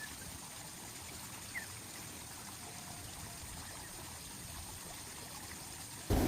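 Water trickling steadily, with a brief high chirp about one and a half seconds in. Just before the end a much louder rushing noise cuts in suddenly.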